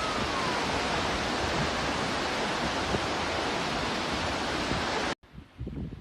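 Steady rushing water noise, an even hiss, that cuts off abruptly about five seconds in; after the cut, fainter low rustling and wind on the microphone.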